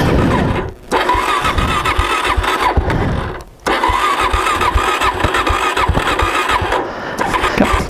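Suzuki DR-Z400S's electric starter cranking its single-cylinder four-stroke engine in three tries, with two short pauses about a second and three and a half seconds in. The engine does not catch; the bike is running on a tank of bad gas.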